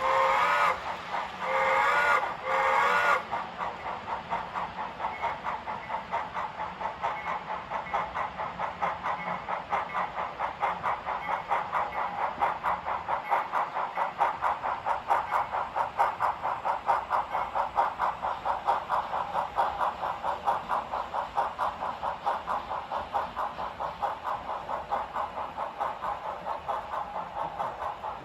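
HO scale model H24-66 Train Master diesel locomotive sound: the horn blows in two long blasts and a short one. Then the train runs past with a steady engine drone and even clicking, about three a second, from wheels over the rail joints.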